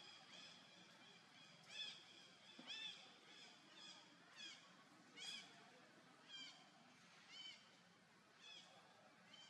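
Baby monkey calling: short, high-pitched arched cries repeated about once a second, faint.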